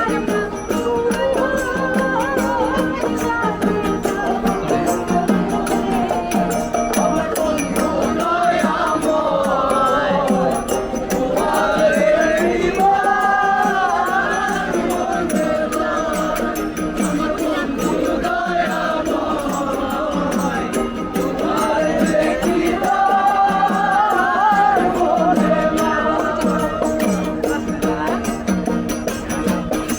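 Live song: a singer's melody over a steady percussion beat, performed by street singers.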